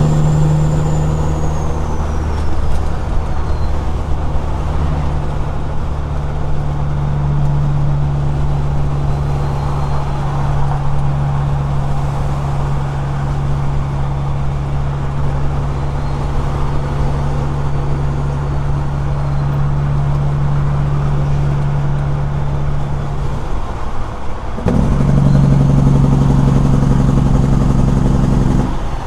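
Straight-piped Caterpillar 6NZ inline-six diesel in a semi truck, running steadily under load on the road. About three-quarters of the way through the engine note dips out briefly, then comes back louder.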